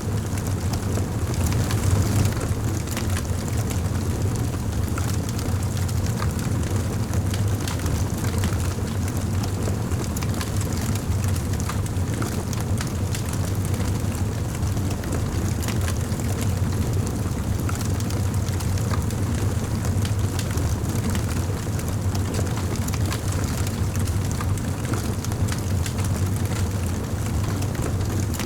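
Wood fire in a fireplace crackling, with frequent small pops and snaps over a steady low rumble of flames.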